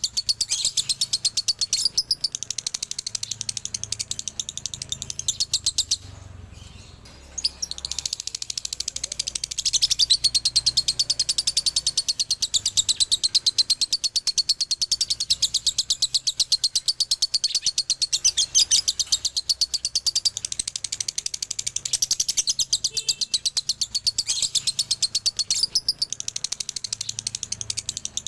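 Male lovebird singing its long, rapid chattering trill (the 'ngekek' dobelan song), a continuous stream of high, fast notes, breaking off for a moment about six seconds in and then running on.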